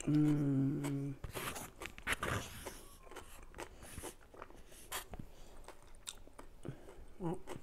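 Close-up chewing and crunching of food, with small clicks and scrapes of a plastic fork on a paper plate. A short hummed voice opens it.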